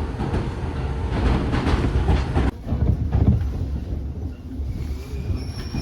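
Fujikyu Railway train running on its rails, with a steady low rumble and clickety-clack of the wheels. Near the end a thin high squeal sets in, as the train slows into the terminus.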